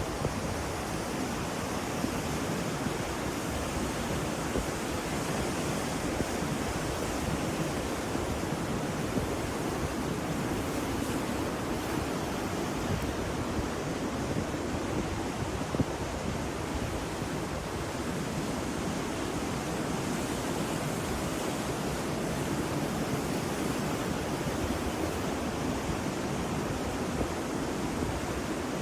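Ocean waves washing continuously as a steady rush of surf, with no single breaker standing out.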